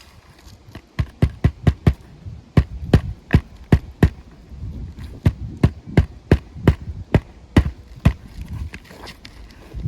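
Hammer driving roofing nails into an asphalt shingle on a roof, about twenty sharp blows in quick runs of several strikes with short pauses between, as the creased shingle is nailed back down.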